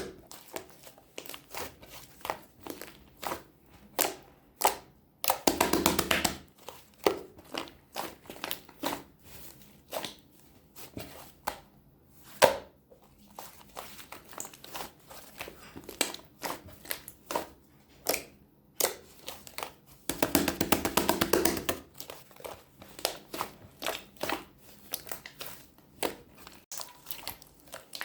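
Glitter slime being squeezed and folded by hand, giving a run of irregular sharp clicks and pops, with two longer wet squishing stretches about five seconds and twenty seconds in.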